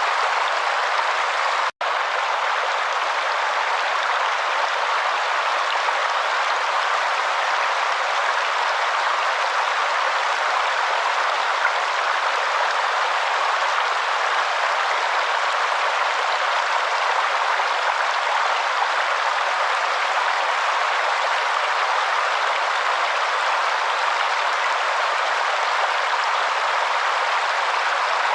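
A waterfall rushing steadily, with a brief cut-out of a fraction of a second just under two seconds in.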